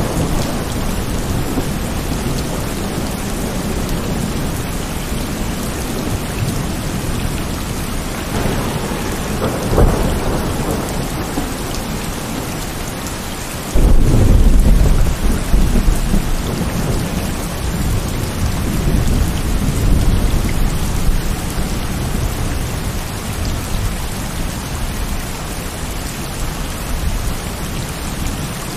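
Heavy rain falling steadily, with thunder. A low rumble swells and fades about ten seconds in; then, a little before halfway, a sudden loud thunderclap breaks and rolls on as rumbling for several seconds.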